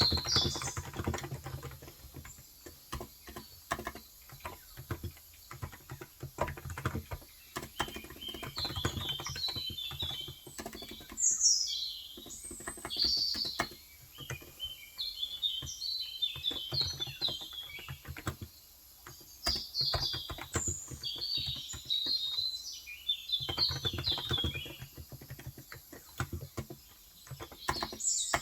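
Typing on a Cox Endeavour electro-capacitive (Topre-style) tenkeyless keyboard with 35 g switches, a run of soft keystrokes that thins out for a few seconds early on, while small birds chirp repeatedly in quick high twitters.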